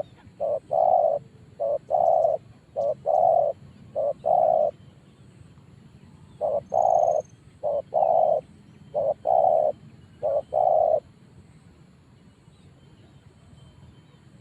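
Spotted dove cooing: eight calls, each a short note followed by a longer one. They come in two runs of four with a pause between, then stop about eleven seconds in.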